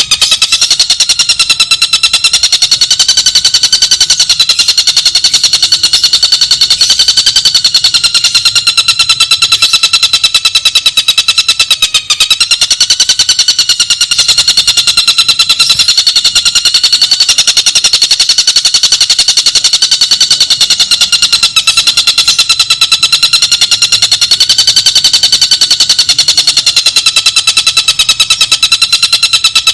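Tengkek buto kingfisher song played as a masteran recording: one very fast, unbroken trill that wavers a little in pitch, with a brief dip about twelve seconds in.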